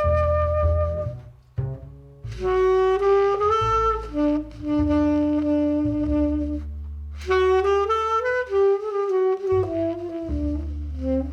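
Tenor saxophone playing a slow jazz ballad melody over upright bass notes, with a brief pause about a second and a half in before the phrases resume.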